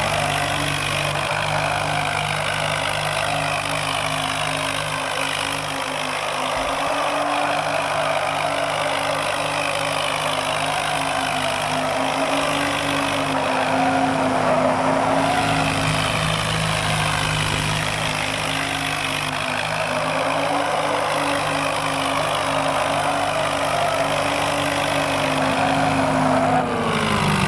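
Engines of a Mahindra Thar 4x4 and a tractor running steadily, their pitch rising and falling slowly, with a drop in pitch near the end.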